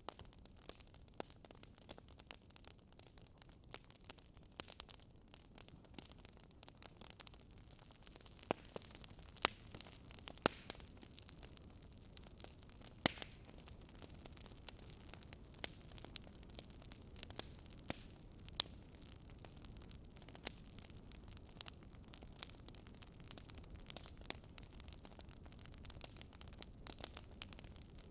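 Fireplace wood fire crackling: irregular sharp pops and snaps over a faint, steady background rumble.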